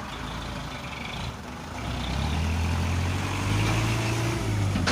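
Dump truck's diesel engine running, its steady low note growing louder about two seconds in.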